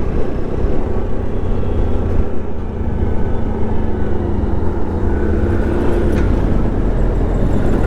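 Motorcycle on the move, its engine running steadily under a heavy, constant rumble of wind on the microphone.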